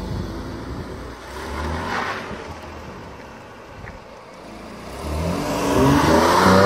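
Porsche 911 Cabriolet's flat-six engine pulling away with a short rev about two seconds in, then accelerating with rising pitch as it drives past, loudest near the end.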